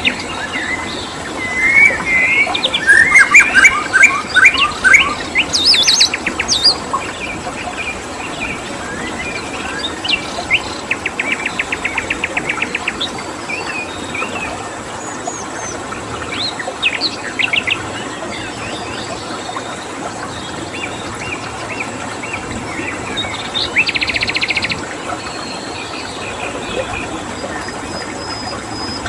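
Mixed wild birdsong: many birds chirping, whistling and giving fast rattling trills, busiest in the first several seconds and again in short bursts later. Under it runs a steady rushing background of stream water.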